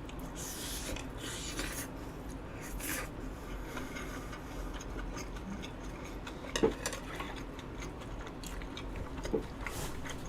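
Quiet eating sounds of a person chewing eel and rice, with a few short clicks and taps of a spoon or chopsticks, over a steady low hum.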